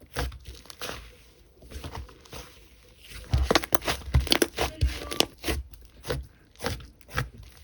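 Slime being squished and pressed by hand, giving a run of crackling pops and clicks that come thicker and louder from about three seconds in.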